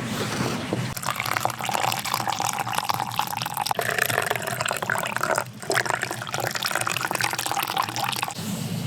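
Liquid, coffee being made, poured into a cup in two pours with a brief break about halfway.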